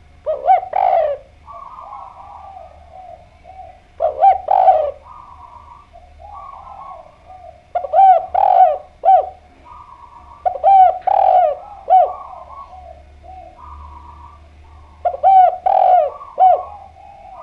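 Spotted dove (derkuku) cooing vigorously: five loud phrases of rounded coos, one every three to four seconds, with fainter cooing between them.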